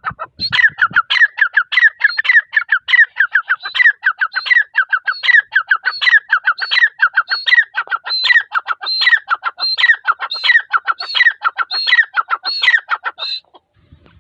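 Female grey francolin calling: a long, rapid run of repeated notes, about five a second, with a higher note returning in a regular pattern. The calling breaks off about a second before the end.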